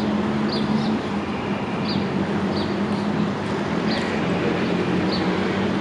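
An engine idling steadily with a low, even hum, while a bird gives short falling chirps over it about once a second.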